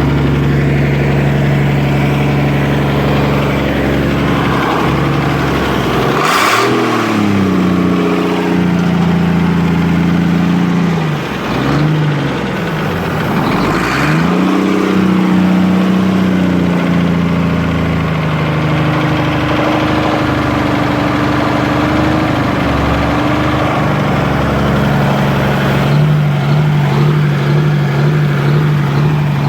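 Engine of a home-built tractor-pull tractor, loud throughout. It idles, is revved up sharply about six seconds in, drops and revs again, holds high for a few seconds, then eases back down to a steady idle over the last few seconds.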